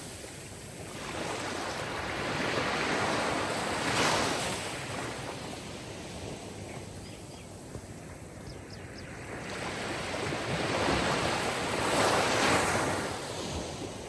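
Sea surf: waves swell and break twice, the first peaking about four seconds in, the second a little before the end.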